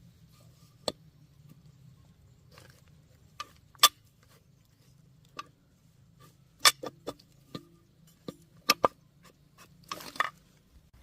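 Irregular sharp metallic clicks and knocks of tools and small metal engine parts being handled and set down, about a dozen in all, some ringing briefly, the loudest about four seconds in and a quick rattle near the end.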